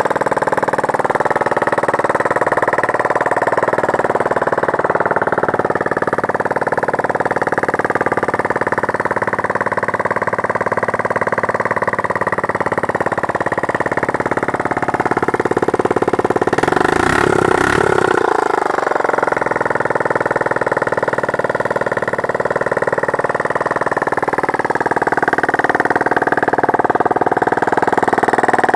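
TT250G motorcycle engine, which has been sitting outside, running steadily at around idle, its pitch wavering a little. About seventeen seconds in there is a brief louder, noisier moment where the pitch dips and recovers.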